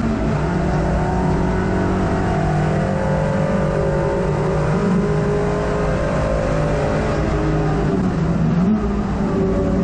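Hot hatch race car's engine heard from inside the cabin, running loud and steady under load, its note shifting a little just after the start and again near the end.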